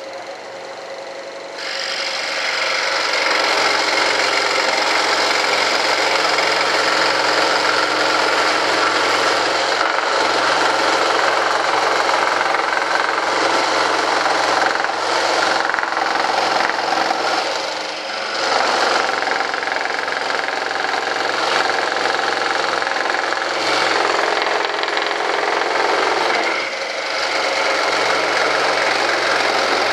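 Electric saw running and cutting through a marked workpiece, a steady motor hum under a loud hiss that comes up to full level about a second and a half in, with brief dips in level near 18 and 27 seconds.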